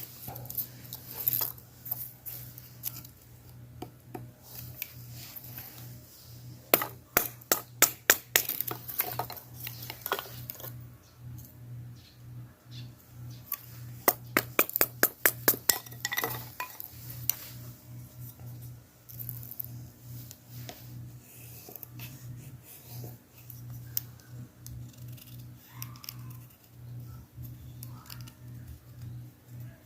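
Two runs of quick, sharp clinks and taps, hard objects knocking together, over a steady low hum; the first run comes about a quarter of the way in, the second about halfway.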